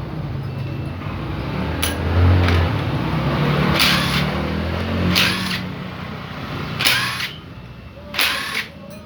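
Yamaha Jupiter motorcycle engine running with a rough note, fading out about two-thirds through, which the mechanic traces to a loose connecting rod and a failing crankshaft bearing. Near the end come several short hissing bursts.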